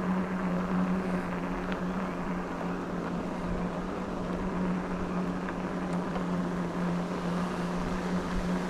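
E-bike on the move: a steady single-pitched motor hum under an even rush of wind and tyre noise.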